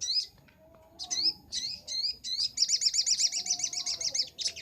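Little spiderhunter (sogok ontong) singing loudly. It gives several separate sharp chirps, then about two and a half seconds in breaks into a fast trill of about ten notes a second.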